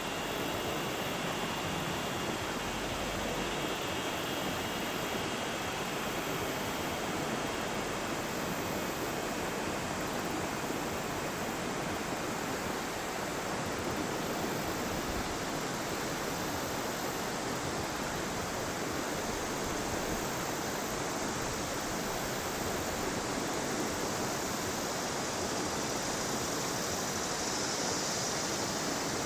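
Yellow River water rushing steadily, an even wash of flowing-water noise.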